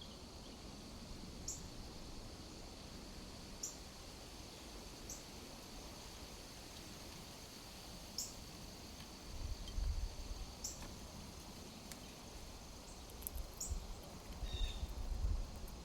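Short, high bird chirps repeating every couple of seconds over a steady, high drone of insects. Two low rumbles on the microphone come in the second half, the louder one near the end.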